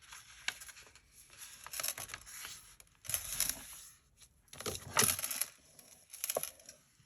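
Sheet of copy paper being folded and creased by hand: rustling and crinkling in several short bursts, the loudest about three and five seconds in.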